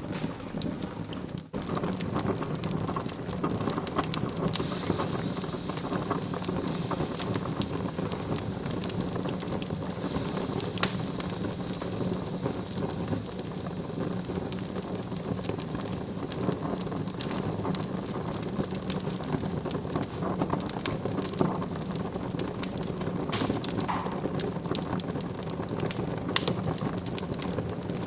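Wood fire in a fireplace crackling steadily: many small sharp pops and snaps over a constant hiss. The sound drops out for a moment about a second and a half in.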